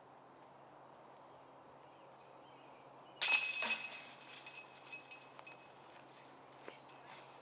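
A thrown disc golf disc strikes the metal basket about three seconds in, and the chains jangle and ring out, fading over a couple of seconds.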